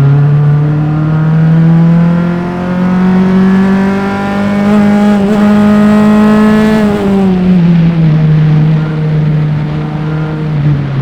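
Single-seater race car's engine at full throttle heard onboard, its pitch climbing slowly and steadily for about seven seconds. The revs then fall away as the throttle comes off, and the engine holds a lower, steady note, easing down once more near the end.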